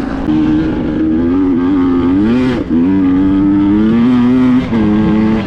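Two-stroke enduro motorcycle engine running under way, its revs climbing and falling back twice, about two and a half seconds in and near the end, each time with a brief dip in loudness.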